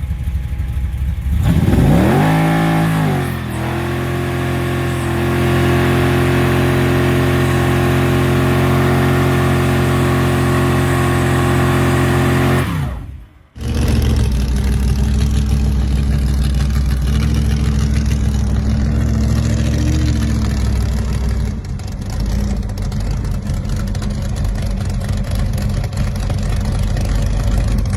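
Gasser hot-rod car engine: it revs up and down about two seconds in, then holds steady high revs for several seconds. It cuts off abruptly, and an engine then runs on steadily.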